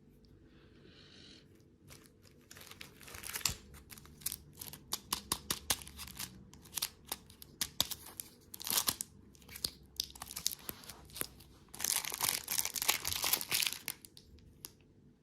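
Packaging being crinkled and torn open: a run of irregular sharp crackles that starts about two seconds in and is loudest and densest near the end.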